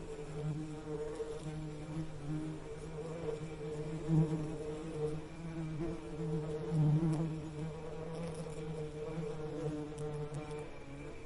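Bees buzzing: a steady low hum that wavers in pitch and swells louder about four and seven seconds in, as if bees pass close.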